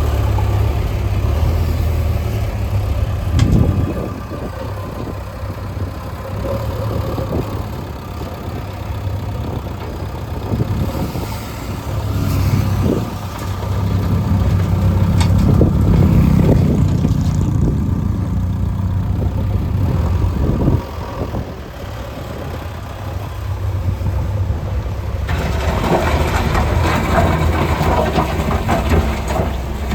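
Diesel engines of heavy construction machinery running, the engine note swelling and easing, with a few sharp metallic knocks.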